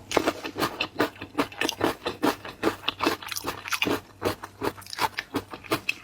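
A person chewing and crunching seafood, with a quick, uneven run of crackles and wet smacks, several a second.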